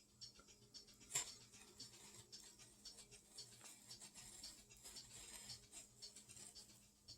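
Near silence with faint scattered light clicks and small handling noises, one sharper click about a second in, over a low steady hum.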